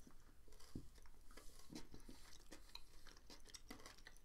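Faint chewing of a chocolate bar with caramel pieces in it: scattered small crunches and mouth clicks, irregular and quiet.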